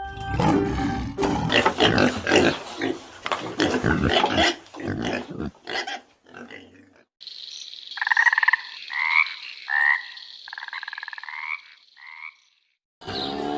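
Animal calls: about six seconds of rough, rapid croaking, then after a short pause a series of about six short pitched calls over a steady high tone.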